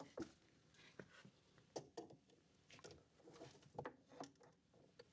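Faint, irregular clicks and taps of hands working electrical wires into inverter terminals.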